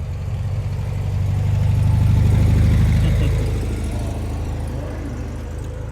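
A car engine running at a low, steady pitch, growing louder toward the middle and then fading away.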